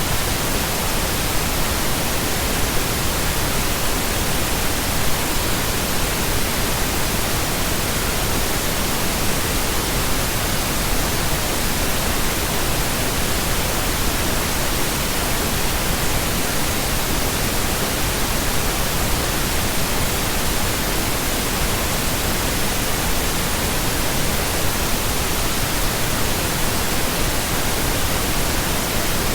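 Steady synthetic pink noise: an even, unchanging hiss across the whole range of pitch, fuller in the lows than white noise.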